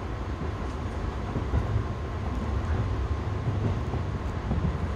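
JR 211 series electric train running along the line, heard from inside the front cab: a steady low rumble of wheels and running gear with a few faint knocks.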